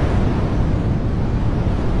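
Steady, dense rushing of water, strongest in the low end, with no single drops or other events standing out.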